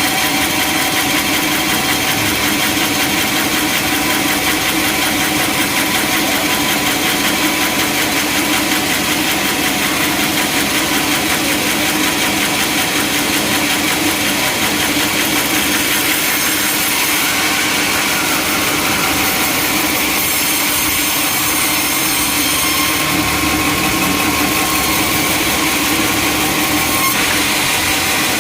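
Sawmill machinery running steadily and loudly, a constant mechanical drone with several held tones, shifting slightly in its upper pitch a few times.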